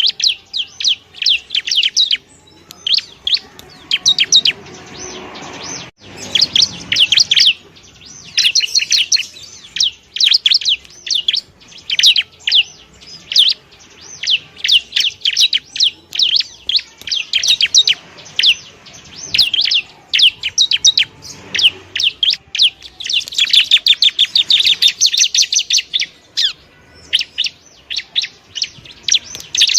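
Bar-winged prinia (ciblek) singing: long runs of rapid, sharp, high chirps, with a brief pause early on and the densest, fastest run about three-quarters of the way through.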